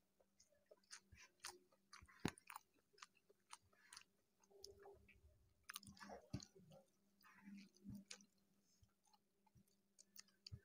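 Faint, wet chewing and lip smacks of a man eating rice mixed with okra in mustard sauce by hand. There are many short clicks spread unevenly through it, the sharpest about two seconds in.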